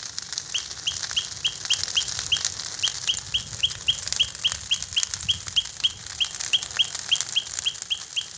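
Bonfire of pruned branches burning with many small crackles. Over it runs a steady series of short, high chirps, about four a second, from a calling animal.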